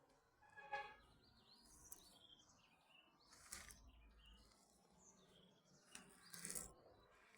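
Faint bird calls: short chirps and whistles through the first half, with a couple of brief rustling noises.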